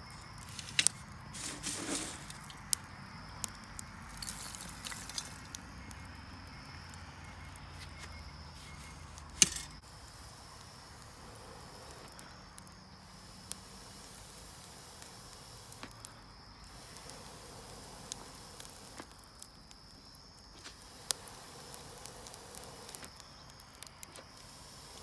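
Outdoor wood fire with scattered sharp crackles and clicks, the loudest about nine seconds in, over a steady high insect trill.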